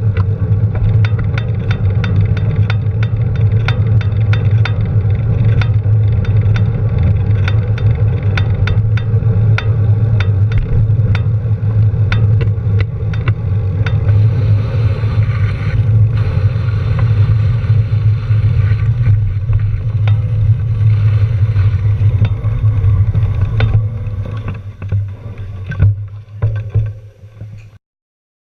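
A vehicle engine running steadily: a low drone with a fast, regular ticking over it. It fades near the end, then cuts off.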